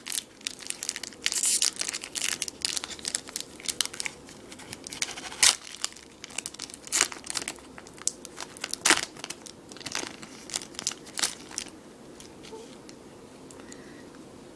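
A Magic: The Gathering booster pack's foil wrapper being torn open and crinkled: a run of sharp crackles and snaps that dies away about twelve seconds in.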